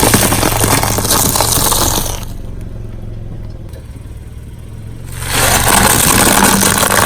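Car engine running steadily at low speed while its tyre grinds and scrapes loudly over objects being crushed. The scraping stops about two seconds in, leaving the engine hum, and starts again a little after five seconds.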